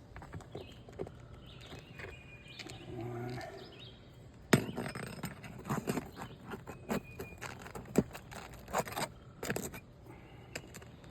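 Hand tool scraping and clicking against asphalt shingles and roofing nails as a wind-damaged shingle is pried up to get its nails out. A sharp knock about four and a half seconds in starts a run of clicks and scrapes.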